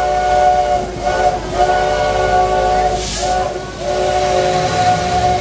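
Locomotive whistle sounding a chord of several steady notes in a series of blasts, short ones first and then two long ones: the signal for the train's departure. A short sharp hiss comes about three seconds in, and near the end a diesel engine's low rumble rises underneath.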